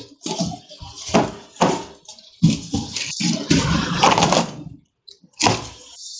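Plastic fish bags full of water being handled: crinkling plastic with water sloshing inside, in several separate bursts.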